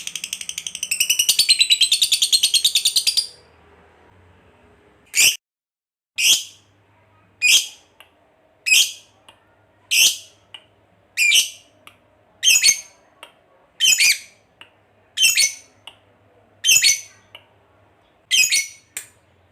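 Lovebird chattering in a rapid, long trill (the 'ngekek') for about three seconds. After a short pause it gives a steady series of short, sharp, high calls, a little over one a second.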